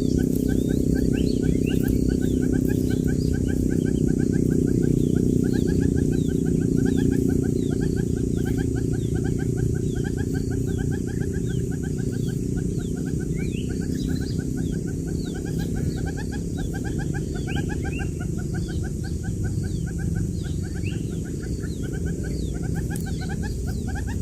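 Quail chicks peeping, many short chirps overlapping, over a steady low hum.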